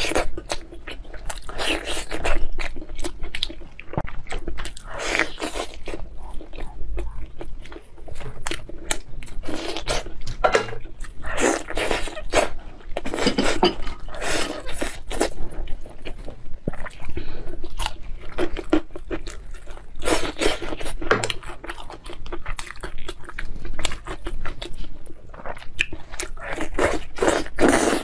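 Close-miked mukbang eating of spicy sauced lamb ribs: repeated bites and wet chewing, many short irregular mouth sounds with no pause.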